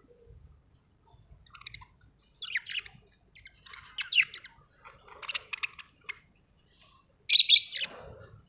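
Pet parrot chirping and warbling in a string of short calls, then a loud harsh squawk near the end.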